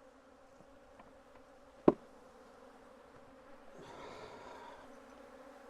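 Honeybees buzzing around an opened hive, a steady hum. A single sharp knock about two seconds in, and the buzzing swells louder for about a second past the middle.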